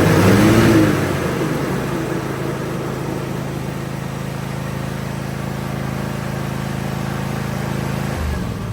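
Country Clipper riding mower's engine running under test with the blade belt engaged, surging with a rising and falling pitch in the first second and then running steadily. The blade-belt tensioner is working as it should. About eight seconds in the steady running stops and the sound dies away.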